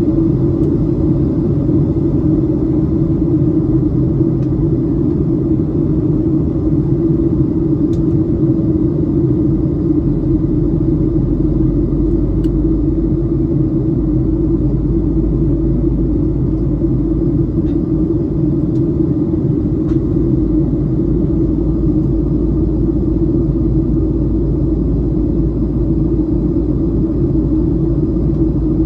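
Steady loud cabin rumble of a Boeing 737-700 airliner in flight, with the deepest part of the rumble growing stronger about ten seconds in.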